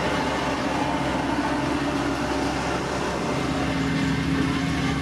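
Heavy road-construction machine's diesel engine running steadily, its note settling and holding a little past halfway.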